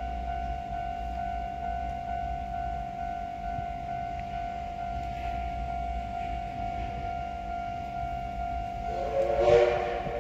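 Electric commuter train running at steady speed: a constant whine over a low rumble, with a brief louder pitched sound about nine and a half seconds in.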